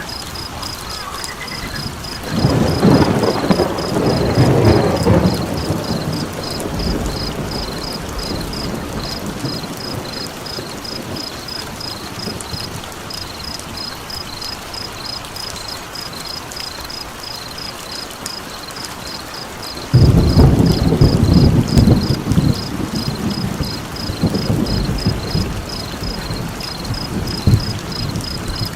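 Two rolls of thunder, the first about two seconds in lasting some four seconds, the second starting about twenty seconds in and rumbling on for several seconds, over a steady bed of rain-like hiss. Throughout, a high, evenly repeated chirping of crickets, several chirps a second.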